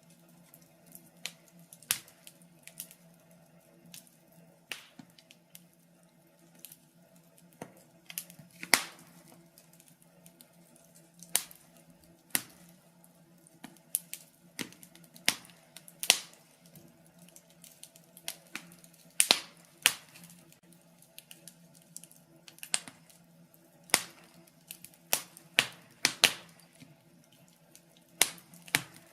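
Wood fire in a fireplace crackling: irregular sharp pops and snaps, some much louder than others, over a faint steady hum.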